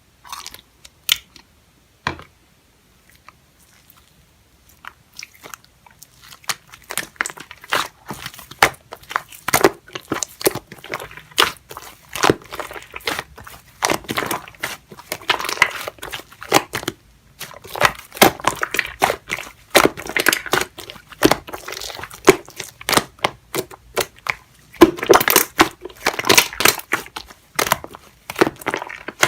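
Slime being squished and pressed by hand, giving off dense crackling and popping. There are a few scattered clicks at first, then steady crackling from about six seconds in.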